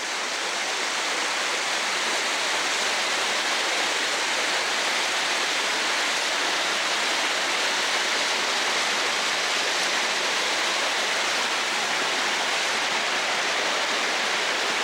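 Steady rush of a waterfall and fast brook water tumbling over rocks, close by.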